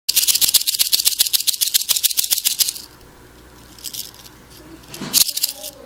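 Rattlesnake rattle rattling: a fast run of dry, high-pitched clicks for nearly three seconds, then two brief shorter bursts near the end.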